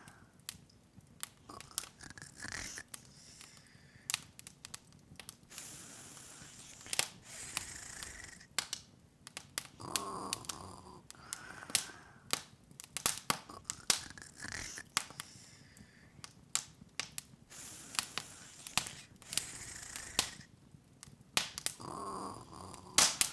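Open wood fire crackling: irregular sharp pops and snaps over a soft hiss, with a few louder pops near the end.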